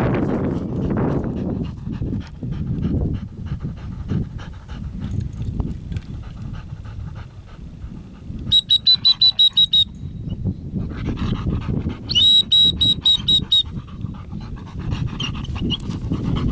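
A dog panting hard. About halfway through come two short runs of rapid, high-pitched beeping.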